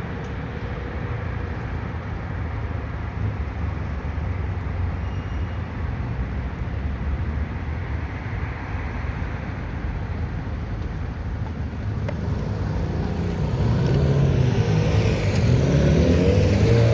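Road traffic: a steady low rumble. In the last few seconds a motor vehicle draws close and passes, louder, with its engine note gliding up and down.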